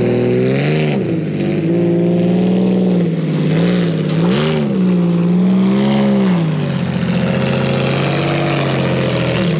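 Porsche 911 flat-six engine pulling the car slowly up the ramps of a car-hauler trailer, revving up and back down in several short blips, then holding a steadier, lower note for the last few seconds.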